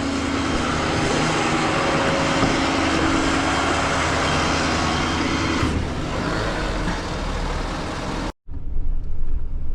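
Flatbed tow truck running, a dense steady mechanical noise that eases off about six seconds in. It cuts off abruptly about eight seconds in, followed by a quieter low rumble.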